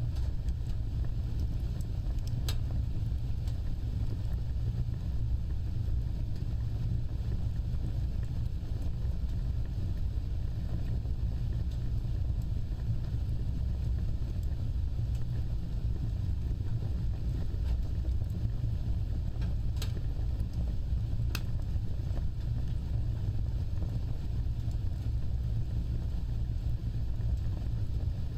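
Wood fire burning with a steady low rumble of flames and a few sharp crackles, one a couple of seconds in and two close together past the middle.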